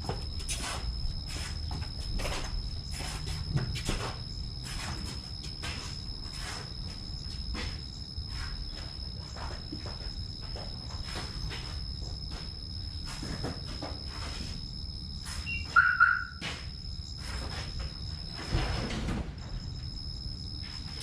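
Outdoor ambience with a steady high-pitched insect drone that stops near the end, many scattered short clicks, and a brief chirp just past the middle. No engine is heard running.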